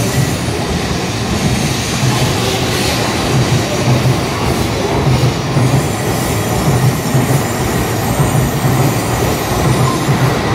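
N700S Shinkansen train pulling away from the platform and gathering speed. A steady running noise with a regular low pulsing.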